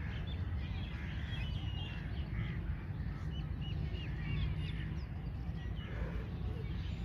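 Birds chirping and calling repeatedly, many short calls one after another, over a steady low background rumble.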